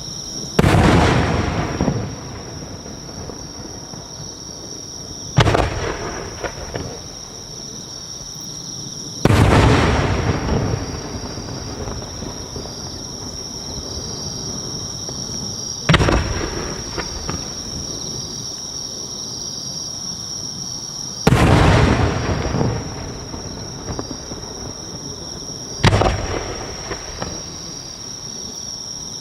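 Japanese No. 5 (about 15 cm) aerial firework shells bursting: six loud booms a few seconds apart, each followed by a rolling echo that dies away over a second or two.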